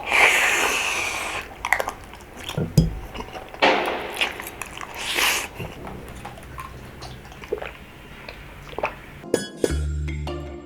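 Close-miked eating of rabokki (ramen noodles and rice cakes): several long, noisy slurps and chewing with small clicks. Music starts near the end.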